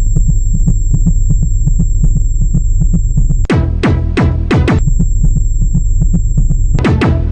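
Loud electrical buzz with a rapid ticking and a steady high whine, broken twice by clusters of falling electronic tones.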